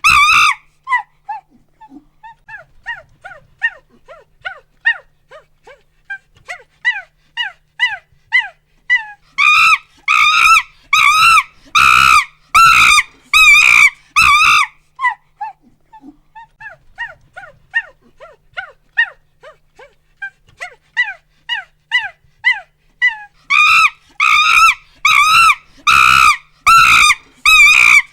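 Monkey hooting and screaming. Runs of short, rising hoots speed up and build into loud, shrill screams, from about ten to fifteen seconds in and again near the end, with quieter hoots between the two.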